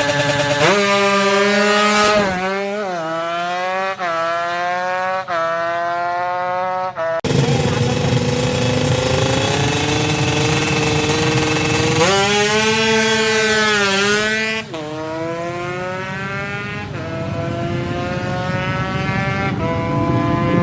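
High-revving DOHC drag-racing engine accelerating hard through the gears: the pitch climbs and drops sharply at each upshift, about four shifts in a row. It breaks off suddenly about seven seconds in, and a second run climbs and shifts through the gears again.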